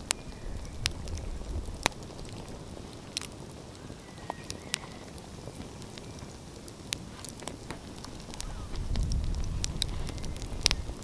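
Wood fire crackling, with scattered sharp pops over a soft hiss. A low rumble swells up about eight seconds in.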